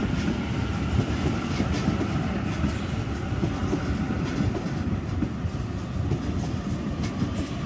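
Sydney Trains Waratah (A set) double-deck electric train running through the platform: a steady heavy rumble of wheels on rail, with scattered clicks as the wheels pass over rail joints.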